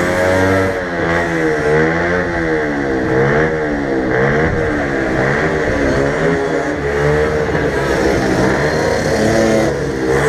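An engine revved up and down over and over, about once a second, its pitch holding steadier for a short stretch in the middle before the revving picks up again.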